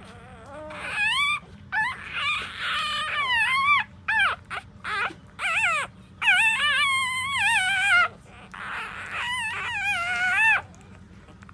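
Newborn puppies, about four days old, crying in high, wavering squeals, one cry after another with short gaps.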